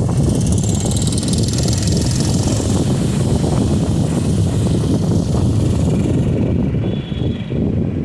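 Heavy vehicle running past: a loud low rumble with a high hiss that fades about six seconds in.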